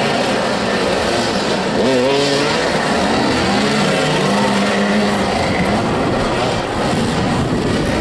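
Several motorcycle engines revving over one another, their pitch rising and falling constantly as the riders accelerate and slow on the pitch.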